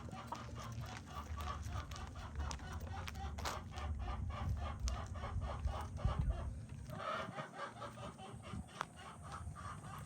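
Chickens clucking, many short repeated clucks from a flock, with a rooster crowing.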